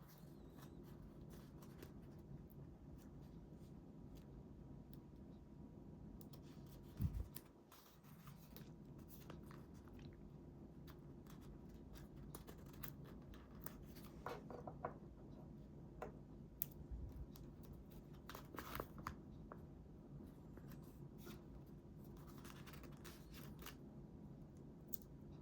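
Quiet paper handling at a desk: scattered faint rustles, taps and clicks, with a few short crinkling bursts in the second half and a low thump about seven seconds in.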